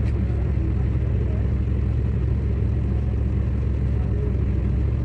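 Car engine idling steadily: an even, low rumble.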